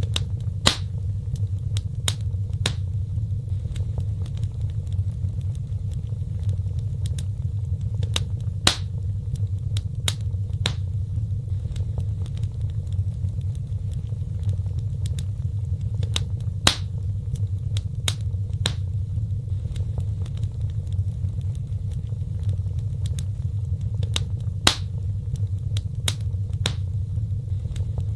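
Wood fire burning: a steady low rumble of flames with sharp crackles and pops every second or so, and a few louder snaps.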